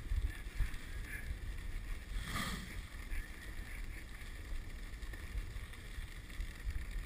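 Dog sled gliding behind a running husky team: a steady hiss of the runners over snow with wind rumbling on the microphone, and a brief faint call about two and a half seconds in.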